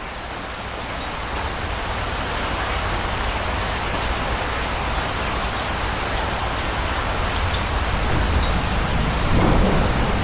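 Steady heavy rain falling, fading in over the first couple of seconds and then holding at an even level.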